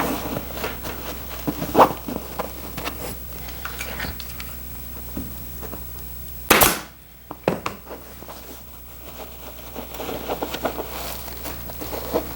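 Staple gun shooting temporary staples through muslin into the sofa frame: several sharp cracks, the loudest about six and a half seconds in, with softer rustling of the cloth being pulled between them.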